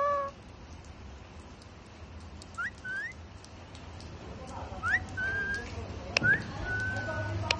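Parrot whistling short, thin, rising notes, one or two at a time, with a longer level whistle near the end.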